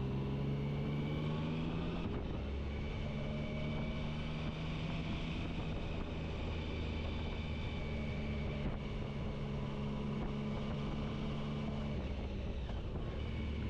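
Motorcycle engine running steadily under way, with wind and road noise. The engine note steps in pitch about two seconds in and shifts again near the end.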